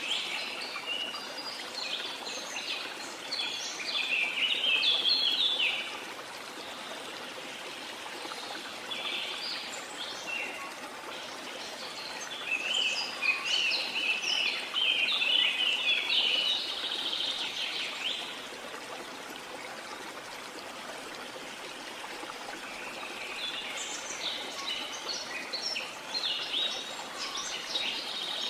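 Steady rush of a waterfall with a chorus of small birds chirping over it in bouts that come and go, quieter between about 6 and 12 s and between 18 and 23 s.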